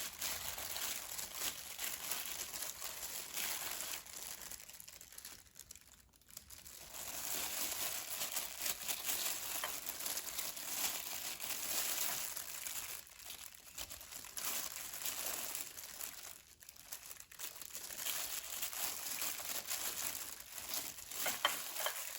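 Dry breadcrumbs rustling and crackling as a raw chicken cutlet is pressed and turned in them on a plate, going quiet briefly twice.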